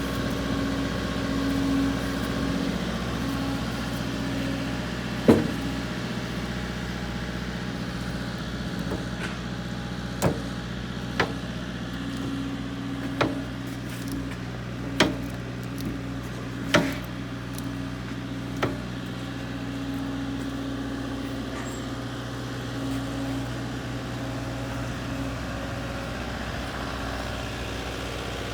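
The diesel engine of a JCB 85Z-1 midi excavator idling steadily. Several sharp metallic knocks are heard between about five and nineteen seconds in, the first of them the loudest.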